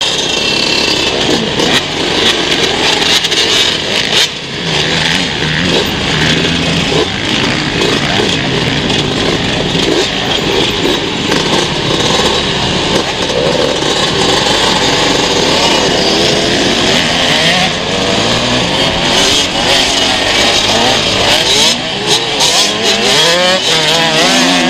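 Motocross motorcycle engines running and revving continuously, their pitch rising and falling with the throttle. In the second half several engines overlap.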